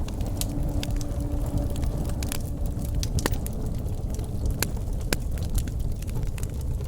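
Wood fire burning with a steady low roar and irregular sharp crackles and pops of the burning wood, several a second. A faint low steady tone runs under it for the first few seconds.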